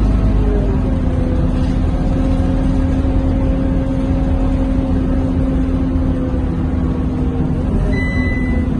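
Scania K230UB city bus heard from inside the cabin while underway: steady engine and road rumble with an even drivetrain whine. A short high beep sounds near the end.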